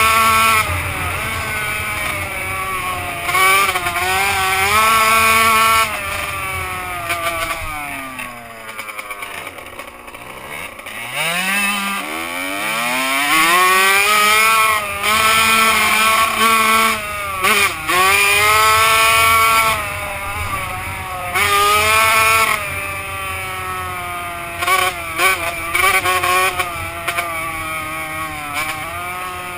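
Two-stroke motocross bike engine revving up and down as it rides, pitch climbing and dropping with each burst of throttle. Around a third of the way in it grows quieter and falls in pitch, then comes back up loud.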